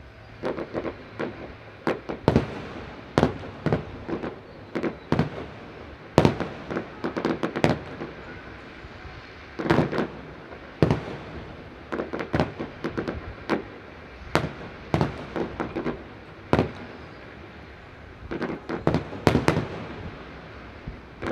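Aerial fireworks display: a long run of sharp bangs at irregular intervals, some single and some in quick clusters of several pops.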